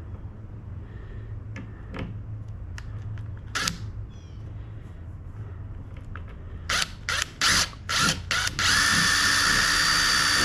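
Power drill run in several short trigger bursts, then held for a steady high-pitched run of about two seconds as it works a screw or pilot hole into the bench's wood. Light clicks and knocks of handling come before it.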